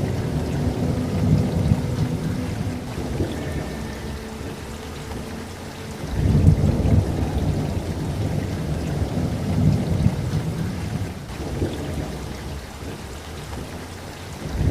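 Steady rain with rolling thunder: low rumbles swell and fade several times, the strongest breaking in sharply about six seconds in.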